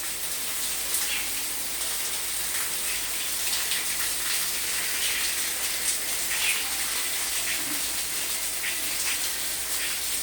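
Steady rain falling: an even hiss with scattered louder drops and splashes.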